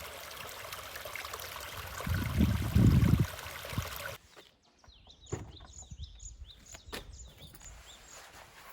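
Outdoor ambience: a steady rushing noise with a couple of low buffets, cut off abruptly about four seconds in. A quieter stretch follows, with repeated high little chirps, about two a second, and scattered clicks.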